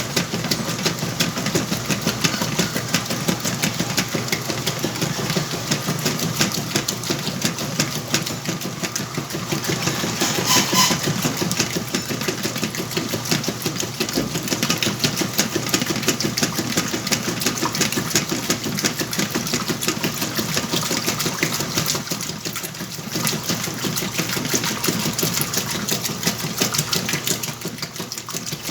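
Whirlpool washing machine running its cycle with a load of blankets: a steady, fast mechanical clatter that goes on without a break.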